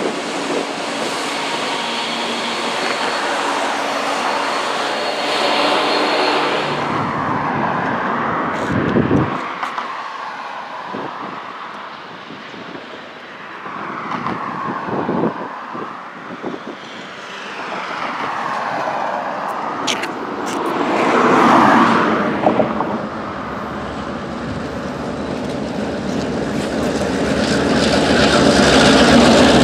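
Diesel freight trains. For the first several seconds a locomotive and autorack cars roll past with a steady engine and wheel noise. After a cut, a second freight's diesel locomotives, led by a CN GP9RM, approach and grow louder near the end.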